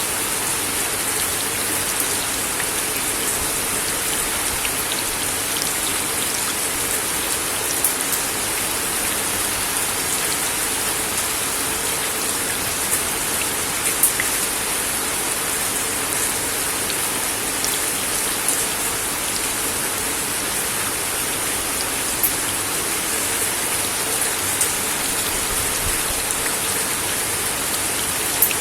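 Steady rain falling on a wooden deck: an even hiss with scattered sharper drips tapping on the boards.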